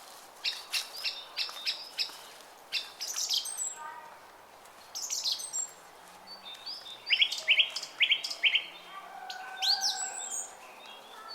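Small songbirds chirping in quick runs of short, sharp notes, with a few lower whistled notes in the later part, over the steady murmur of a brook.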